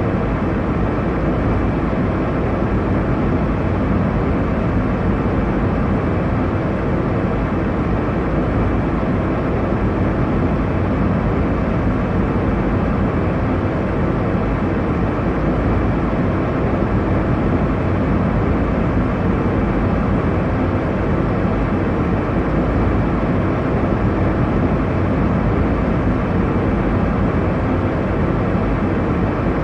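Steady airliner cabin noise in flight: a constant low rushing drone of engine and airflow, with no changes or separate events.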